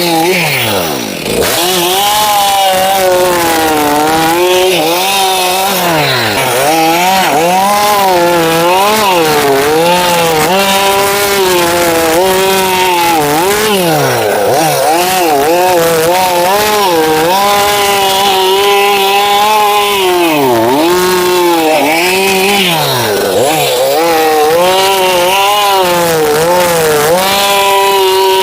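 A chainsaw cutting through thick logs. The engine pitch repeatedly drops as the chain bites into the wood and rises again between cuts.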